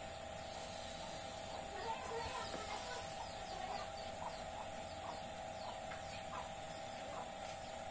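Birds calling, with short chirps repeated many times from about two seconds in, over a steady hum.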